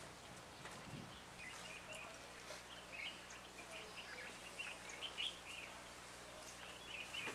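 Birds chirping faintly, short scattered calls again and again, over a steady low background hum.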